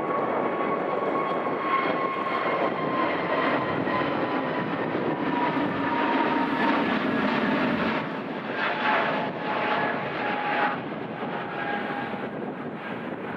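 Airliner's engines running as it passes, a steady rumble with a thin whine that slowly falls in pitch, the sound easing off about eight seconds in.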